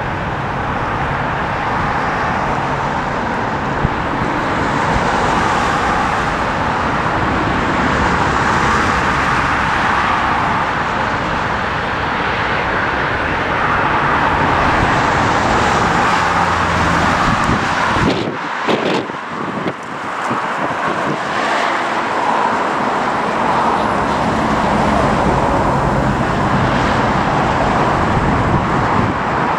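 Strong wind buffeting the microphone over a steady roar, with a short lull in the low rumble about two-thirds of the way through.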